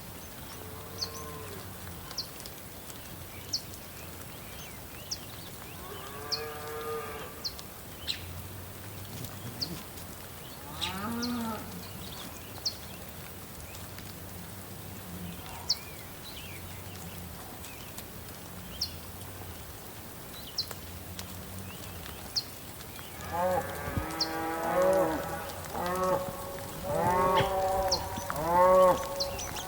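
Animal calls: a drawn-out call about six seconds in, another near eleven seconds, then a quick run of repeated calls in the last six seconds. Short high chirps sound every second or two throughout.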